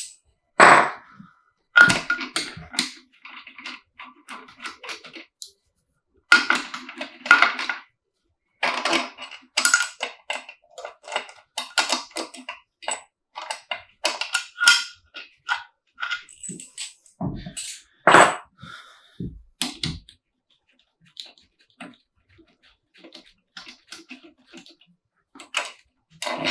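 Hand tools working on a BMW M50B25 engine during cylinder head removal: runs of rapid metallic clicking, with separate sharp metal knocks, the loudest about 18 seconds in.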